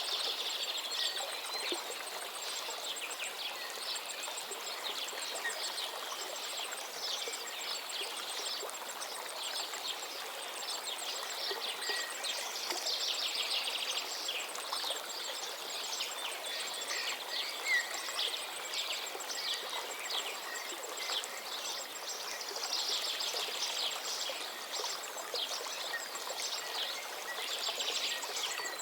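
A stream running steadily while many small birds chirp and twitter over it in quick runs of short notes.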